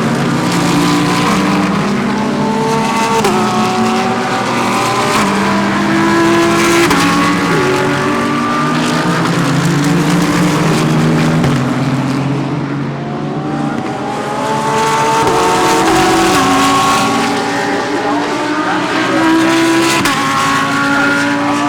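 Several GT3 race cars running through a corner together, their engines overlapping as they rise in pitch and step through gear changes. The sound dips briefly about two thirds of the way through, then builds again as more cars come through.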